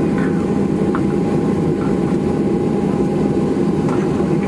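Steady cabin noise inside a Boeing 737-700 airliner: a low, even roar with a steady hum, and a few faint ticks.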